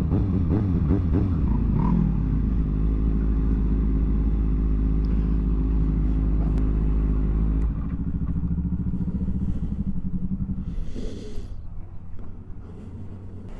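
Motorcycle engine running steadily while riding, heard from the bike. About eight seconds in it drops to a quieter, lower run, then fades further near the end as the bike slows.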